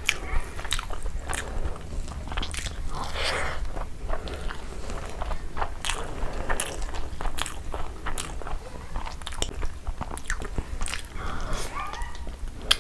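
Close-miked chewing of a mouthful of rice pulao and chicken curry: irregular wet mouth clicks and smacks.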